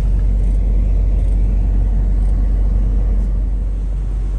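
Steady low rumble of a semi-truck's engine and road noise heard from inside the cab while driving slowly in heavy traffic.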